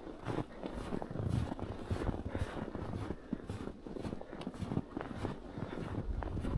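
Footsteps crunching in snow at a steady walking pace, with low wind rumble on the microphone.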